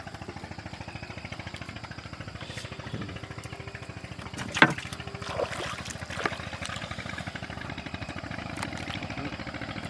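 A small fishing boat's engine running steadily with a fast, even beat. Around the middle come a few sharp knocks or splashes, the first the loudest.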